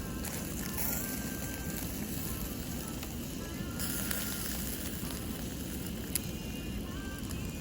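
Meat sizzling and crackling over a charcoal fire, with a sharp pop about six seconds in.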